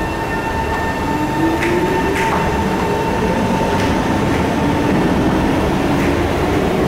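SMRT C151 train pulling out of the station: its motors whine upward in pitch as it gathers speed, over steady rumbling running noise that slowly grows louder, with a few scattered clicks.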